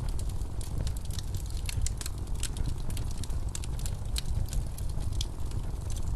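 Wood fire crackling in a fireplace, with irregular sharp snaps and pops, over a steady low rumble of blizzard wind.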